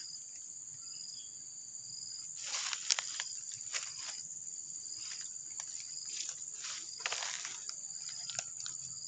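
Steady high-pitched chorus of insects, with scattered brief rustles and clicks from a few seconds in.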